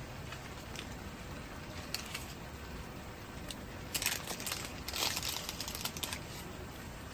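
Campfire crackling: scattered pops over a steady hiss, thickening into a flurry of crackles about four seconds in.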